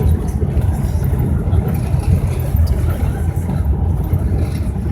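Steady low rumble of an airliner heard inside the passenger cabin: engine and airframe noise with no distinct tones or sudden events.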